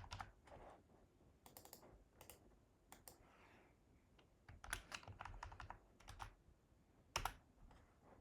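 Faint typing on a computer keyboard: scattered key clicks in short runs, with one louder keystroke near the end.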